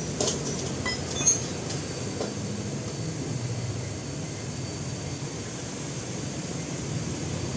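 A few light metallic clinks of hand tools on steel suspension parts, mostly in the first second and a half, over a steady low rumble.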